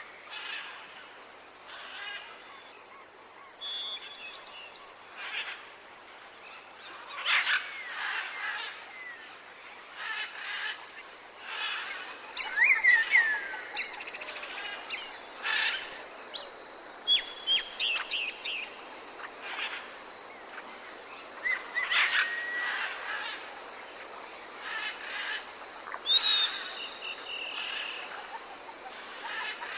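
Parrots calling: a steady run of short squawks and chirps with some quick whistled glides, several birds overlapping.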